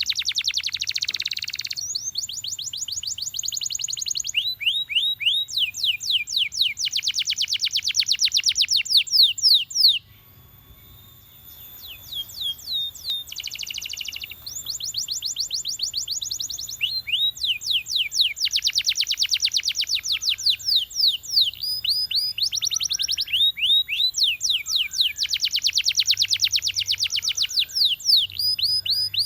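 Domestic canary singing: long, rapid trills of repeated notes in runs, with a short pause about ten seconds in.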